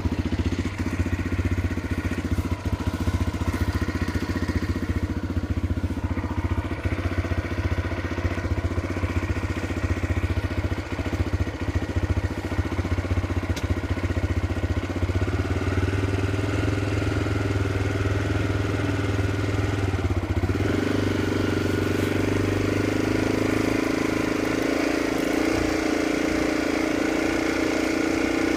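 Small motorcycle (bush bike) engine running steadily while being ridden, its pitch stepping up about halfway through, dropping briefly for a moment about 20 seconds in, then holding at a higher steady pitch.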